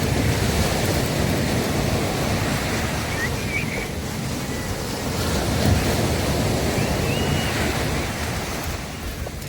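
Sea waves breaking and washing up a beach in a continuous rush, swelling louder at the start and again about halfway through.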